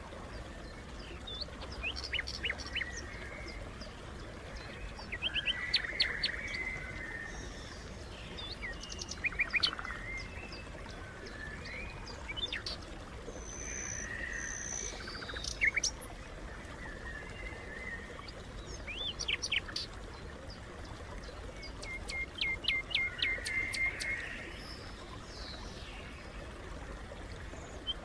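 Songbirds chirping and calling in short clusters of quick, high notes, with a low, steady rumble underneath.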